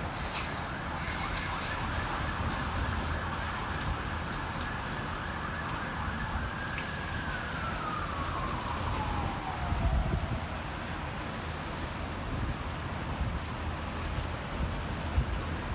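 Gusting wind rumbling on the microphone, with a siren holding a high pitch and then winding down in pitch about seven seconds in.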